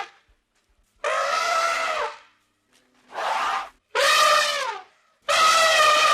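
An animal calling four times: each call is a drawn-out, wavering cry about a second long, the second one shorter, falling in pitch as it ends.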